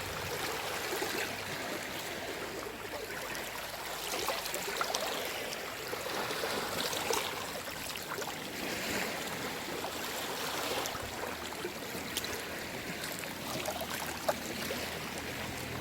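Small sea waves washing and lapping on the shore, a steady wash of water that swells and eases every couple of seconds, with fine trickling and splashing.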